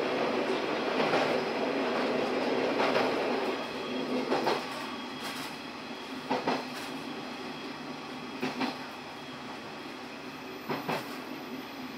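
Running noise of a local train, heard inside the cab: a louder rumble while it crosses a bridge for about the first four seconds, then quieter steady running. After that come single clacks of the wheels over rail joints, about every two seconds.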